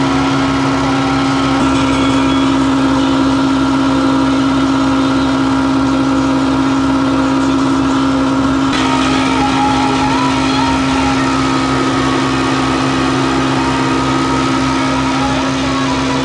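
Massey Ferguson 399 tractor's six-cylinder diesel engine running steadily, with a slight change in its tone about nine seconds in.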